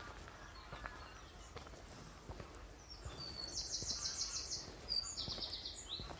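Woodland songbirds singing, with scattered high chirps and two quick trills of rapidly repeated notes, the second lower and shorter, in the second half.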